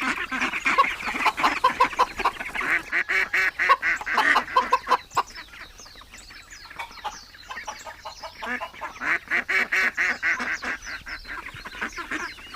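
A flock of waterfowl, ducks and geese, quacking and honking in rapid overlapping calls, in two busy bouts with a quieter spell in the middle.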